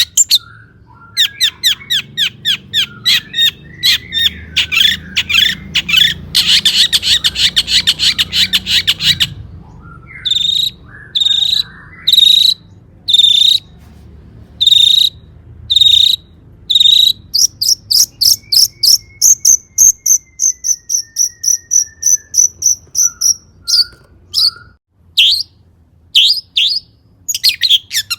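Long-tailed shrike (cendet) singing loudly. It opens with rapid runs of harsh, chattering notes, then gives a series of single sharp notes about one a second, then a long, fast, high trill, followed by more quick notes. The song is full of imitations of other birds' songs.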